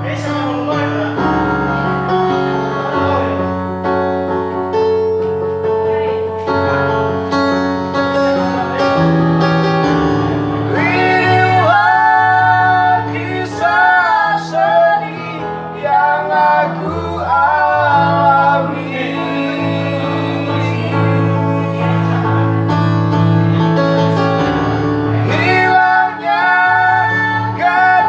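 A child singing a slow song over instrumental accompaniment with held bass notes; the voice, with a wavering pitch on long notes, comes in more strongly about ten seconds in.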